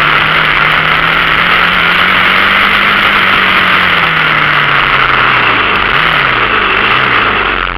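Dirt bike engine running under steady throttle, its pitch rising slowly and easing back, then two quick throttle blips near the end, over a loud steady hiss.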